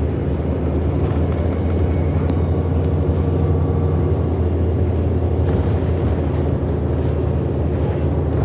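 Cabin sound of a 2008 Orion NG hybrid-electric transit bus under way: its drivetrain runs with a steady low hum, and a faint higher tone comes in around the middle.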